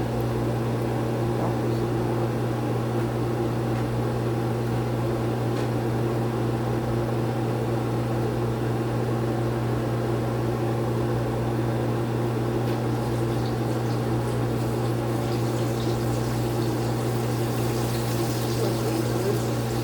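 Chicken pieces deep-frying in hot oil, a steady sizzle that grows louder near the end, over a constant low mechanical hum.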